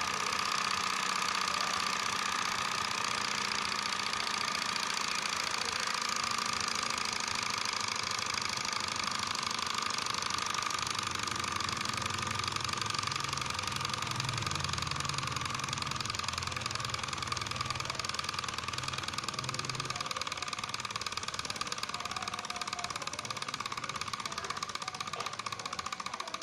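Small model Stirling engine running steadily: a fast, even mechanical clatter with a constant high whine over it.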